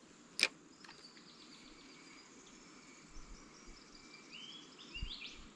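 Faint outdoor bird calls, a run of high repeated chirps ending in a brighter rising-and-falling call near the end. A single sharp click about half a second in is the loudest sound, with a couple of soft low thumps later.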